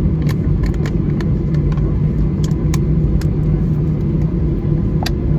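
Cabin noise of an Airbus A319 rolling after landing: a steady low rumble from its CFM56 engines and the airframe, with scattered sharp clicks and rattles.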